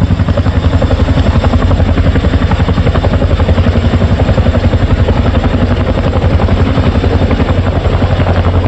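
Firefighting helicopter hovering close by while it refills with water, its rotor beating in a loud, fast, steady pulse.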